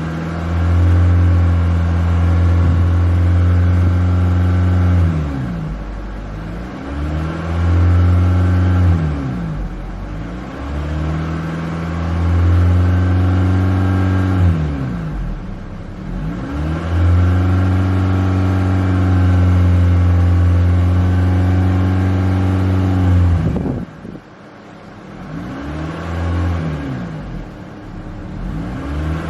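Honda Civic engine being revved with the accelerator: it climbs and holds at high revs for a few seconds, drops back and climbs again, about five times over. Near the end it falls off suddenly and then gets two short blips.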